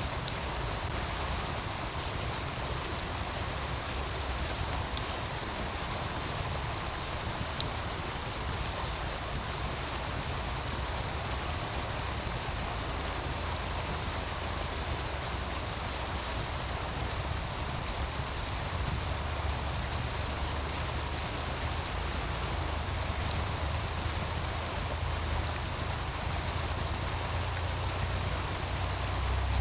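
Meltwater stream running with a steady rush, with a few sharp pops from a wood fire crackling now and then. A deep rumble runs underneath and swells near the end.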